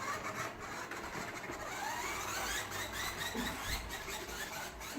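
Faint whir and rattle of a toy truck being pushed along the floor, rising in pitch for a moment about two seconds in.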